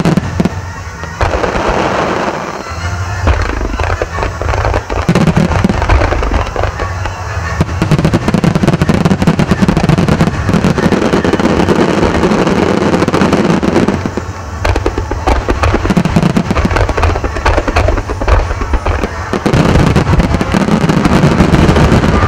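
A Japanese starmine fireworks barrage: many aerial shells bursting in rapid succession, a continuous run of booms and crackling, with music playing along.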